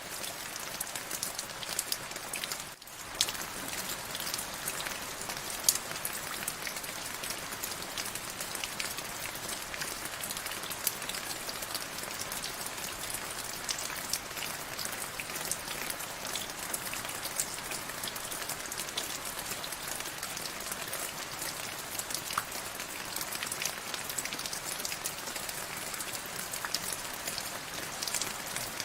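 Steady rain falling on a surface, an even hiss dotted with many separate sharp drop hits. The sound briefly dips away about three seconds in.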